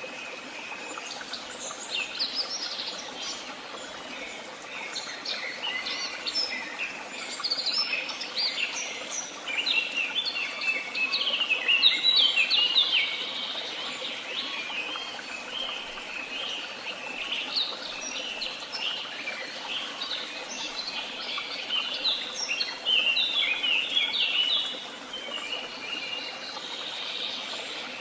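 Several small songbirds chirping and singing, with many quick, overlapping notes, busiest about ten seconds in and again a little past twenty seconds. A steady faint background hiss runs underneath.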